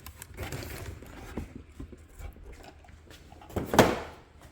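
Light clicks and knocks of a small RC car and its plastic parts being handled, with one louder half-second noise about three and a half seconds in.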